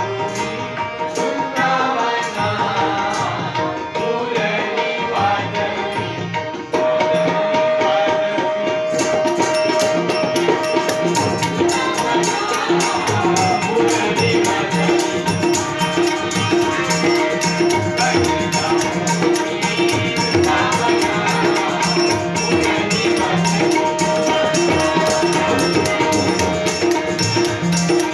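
Marathi devotional bhajan (gaulan) music: a steady sustained drone with a hand drum keeping rhythm and a voice singing over it. About nine seconds in, rapidly struck small hand cymbals join and keep going.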